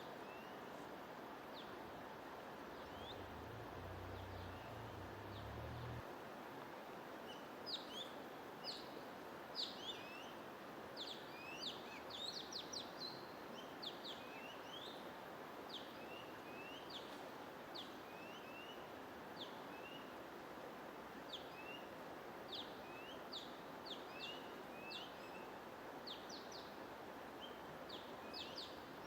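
Small birds chirping in short, quick calls over a steady white-noise hiss. The chirps are sparse at first and come thick and fast from about seven seconds in.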